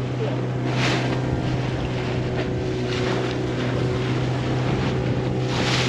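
Motorboat engine running steadily under way, with water and wind rushing past, and two short louder hisses of spray, about a second in and near the end.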